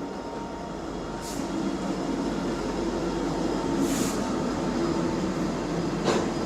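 CN freight train rolling past with a steady rumble of wheels on rail, growing louder over the first two seconds. Three sharp clicks stand out, near the start, in the middle and near the end.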